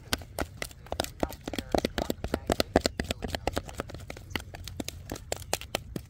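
Campfire crackling and popping in sharp, irregular snaps, several a second, over a steady low rumble.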